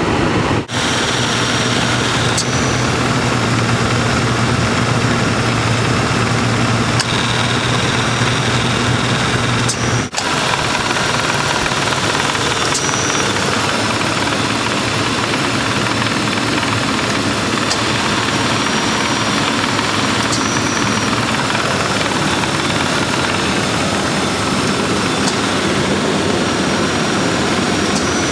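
1995 Lincoln Town Car's 4.6-litre V8 idling steadily with the air conditioning running while R-134a refrigerant is drawn into the system. There are two brief dropouts, about a second in and about ten seconds in.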